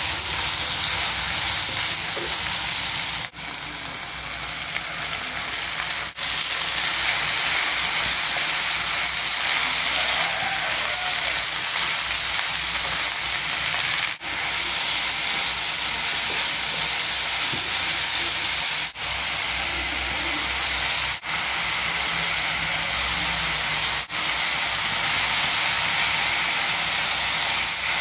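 Shallots, tomatoes, coconut and pennywort leaves sizzling as they sauté in a non-stick kadai under a wooden spatula: a steady frying hiss that cuts out briefly several times.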